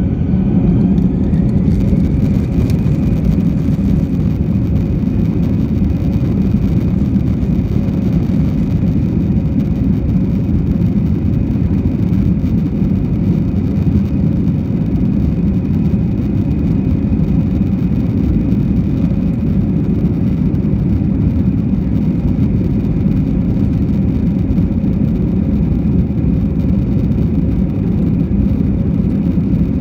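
Airbus A320's twin jet engines running at takeoff power: a steady, loud rumble, with an engine whine rising in pitch in the first couple of seconds.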